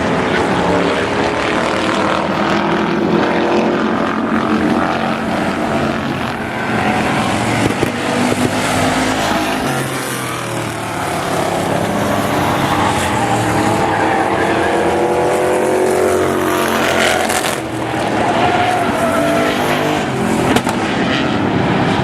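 Several demolition derby cars racing around a short oval, their engines overlapping and rising and falling in pitch as they pass and rev. A sharp knock near the end.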